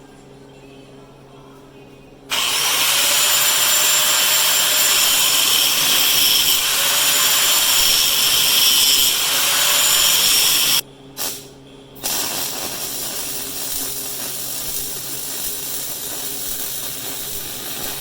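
Power grinder digging a cracked first-pass weld back out of a cast iron engine block: it starts about two seconds in and grinds hard for some eight seconds, its pitch dipping and rising under load, then stops, gives one short burst, and runs on more quietly for about six seconds.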